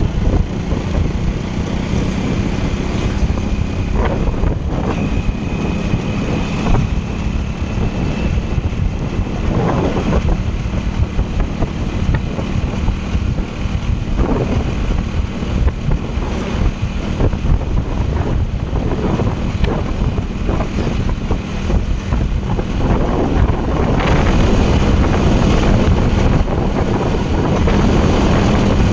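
Wind buffeting the microphone of a moving bike, with a steady low hum running underneath. It grows louder for the last few seconds.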